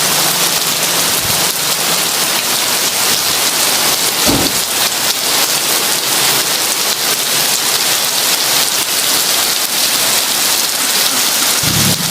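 Heavy rain falling steadily, a dense even hiss. There is a brief low thump about four seconds in, and a low rumble begins near the end.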